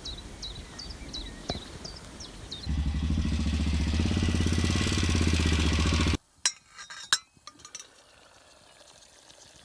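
Repeated short, high chirps, then an adventure motorcycle's engine running steadily for about three seconds before cutting off abruptly. A couple of sharp clinks follow.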